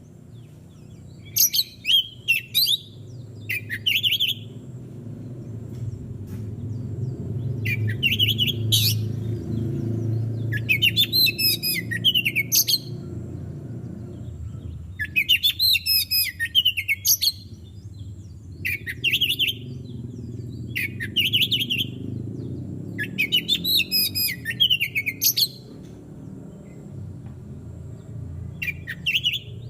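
Oriental magpie-robin (kacer) singing in separate phrases every few seconds. Some are short whistled notes and some are longer, rapid, varied warbles, over a steady low background rumble.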